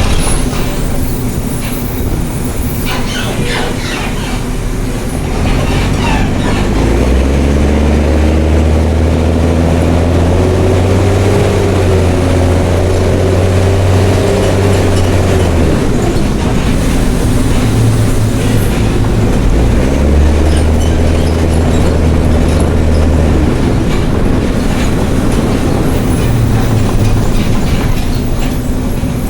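Mercedes-Benz OH1420 bus's OM366LA turbocharged inline-six diesel on open exhaust, pulling hard: the engine note rises in pitch about a quarter of the way in, holds, eases off, then pulls again twice more. Rattles and clatter from the bus body come through, mostly in the first few seconds.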